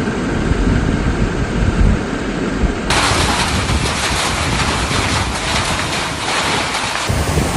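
Storm noise: wind rumbling on the microphone, then about three seconds in an abrupt change to a dense, bright hiss of heavy precipitation, which changes back to the rumble near the end.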